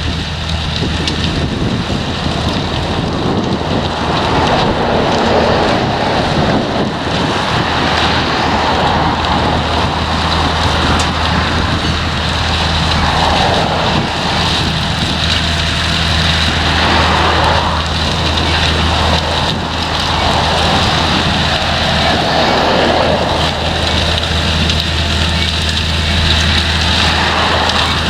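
Potato harvester at work: a steady low engine drone under a rushing, rattling noise that swells and fades every few seconds.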